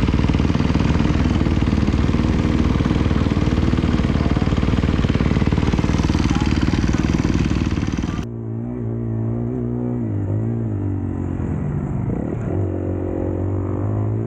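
Dirt bike riding: a loud engine mixed with heavy wind on the microphone. About eight seconds in, a cut gives way to a duller-sounding dirt bike engine whose note rises and falls as it is revved and eased off.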